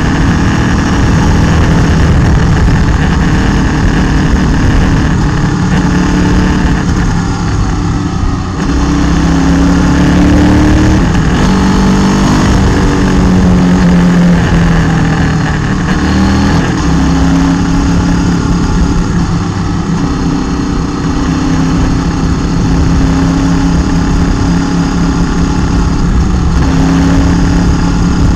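Motorcycle engine running while riding a mountain road, its pitch rising and falling several times as the throttle changes, over a steady rush of wind and road noise.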